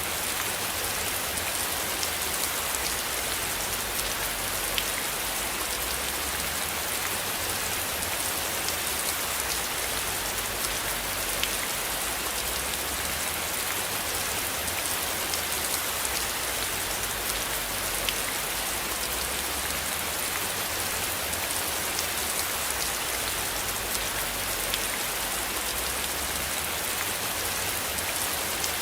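Steady rain falling on a surface, a continuous even hiss with scattered faint drop ticks.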